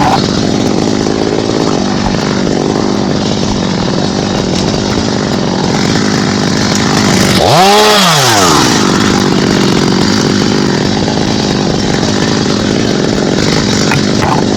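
Chainsaw running steadily while cutting wood, revving up briefly and dropping back about halfway through.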